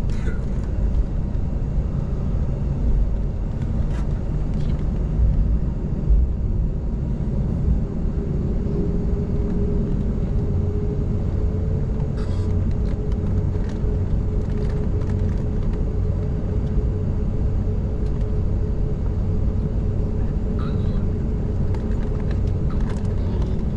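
Steady low rumble of an Airbus A380 heard from inside the cabin as it taxis in to the gate, with a steady hum joining about a third of the way in.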